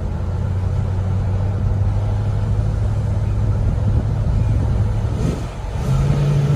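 The 1973 Ford Torino's 351 Cleveland V8, fitted with Holley Sniper EFI, running while the car is driven, heard from inside the cabin. A steady low drone that dips briefly about five seconds in, then comes back at a higher pitch.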